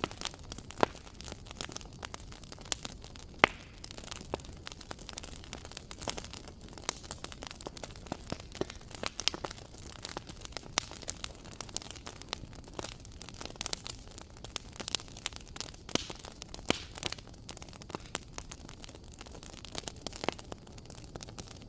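Wood fire crackling in a fireplace: a steady low rumble of flame with irregular sharp crackles and occasional louder pops.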